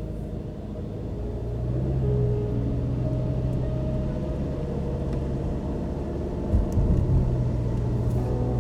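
Car driving, a steady low rumble of engine and tyres on the road that grows louder about a second or two in. A few short low thumps come about two-thirds of the way through.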